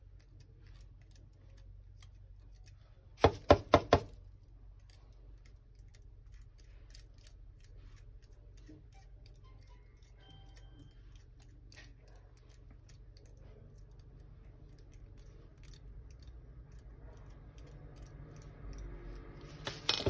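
Faint small clicks and handling noises of a plastic electric shaver being taken apart, with a quick run of four loud, short pitched sounds about three seconds in.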